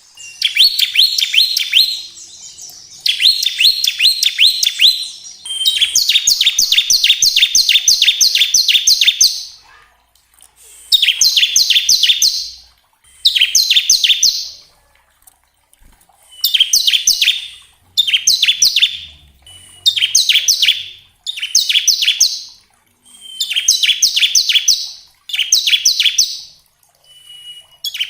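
Bar-winged prinia (ciblek) singing its fast rattling 'ngebren' song: about a dozen phrases of rapid, evenly repeated high chips, each one to four seconds long with short pauses between. Some phrases open with a brief thin whistle.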